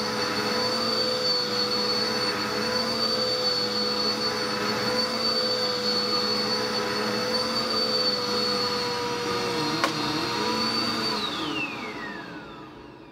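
Dirt Devil vacuum cleaner running with a steady motor whine, then switched off about eleven seconds in, its whine falling in pitch and fading as the motor spins down.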